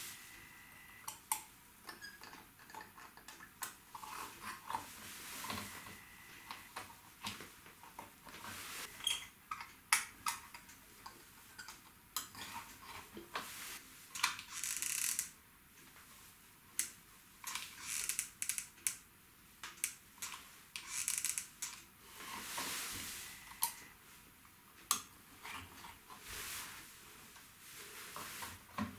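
Small metal tools and parts clicking and clinking irregularly during hands-on work on a guitar amp chassis, with a couple of short hissing noises.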